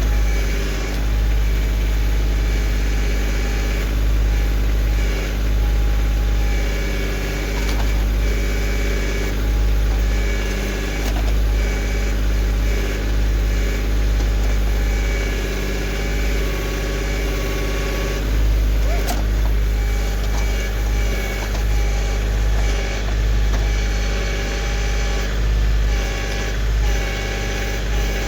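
Kioti CK2610 compact tractor's three-cylinder diesel engine running steadily while operating the backhoe, its level swelling and dipping slightly every second or two.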